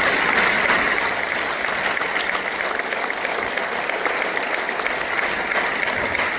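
Audience applauding: a dense patter of many hands clapping that eases off slightly.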